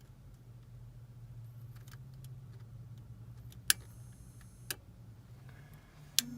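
Gas furnace starting up on a call for heat: a low motor hum builds slowly, with three sharp clicks in the second half, the last near the end.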